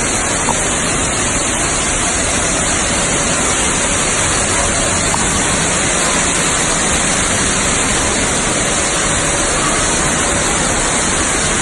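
Steady rushing of falling water, an even roar with no breaks.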